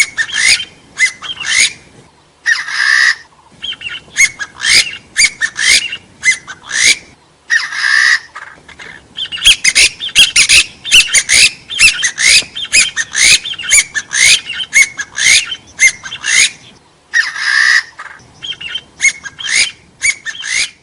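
Hill partridge (gà so, Arborophila) calling: a rapid run of short rising whistled notes, several a second. Three times the notes give way to a harsher call of about a second.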